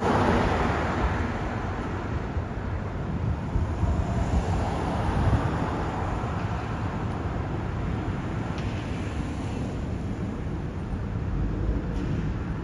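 Steady low rumble of vehicles and road traffic, with wind noise on the microphone.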